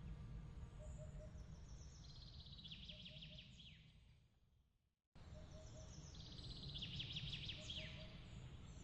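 Faint night ambience: a bird's rapid high trill ending in falling notes, heard twice, over soft repeated low chirps and a low rumble. The ambience fades out to silence about five seconds in and cuts straight back in, the seam of a looped track.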